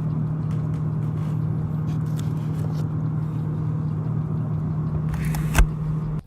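A steady machine hum with a rushing noise under one held low tone, broken by a single knock about five and a half seconds in, then cut off abruptly.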